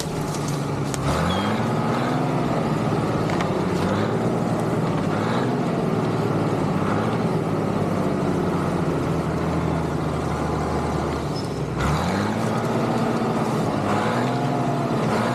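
Tractor engine running under load while skidding logs, its revs rising and falling again several times.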